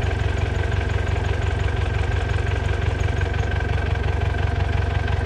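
Diesel engine of construction machinery running steadily with a fast, even throb.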